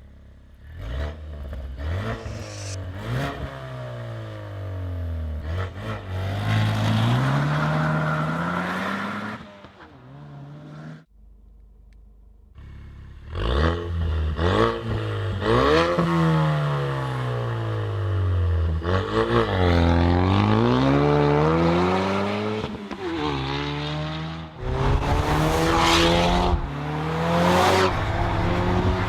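Ford Mustang 2.3 EcoBoost turbocharged four-cylinder revving again and again through a REMUS aftermarket exhaust, the pitch rising and falling with each rev. The sound drops off for about two seconds around eleven seconds in, then the revving resumes.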